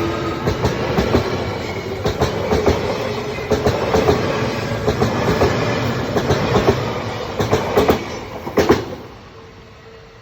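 Odakyu Line electric train passing over a level crossing, its wheels clattering over the rail joints in quick knocks. The clatter dies away about nine seconds in, leaving a steady tone.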